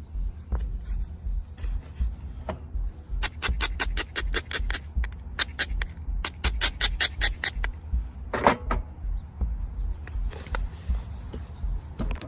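Limestone being knapped by hand: two runs of quick, sharp stone clicks, about six a second, then a single heavier strike with a short ring about eight and a half seconds in, over a steady low rumble.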